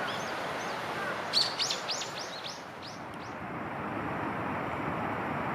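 A bird calling: a quick run of about eight sharp, high notes lasting about two seconds, the first the loudest, after a few faint chirps. A steady background hiss runs underneath.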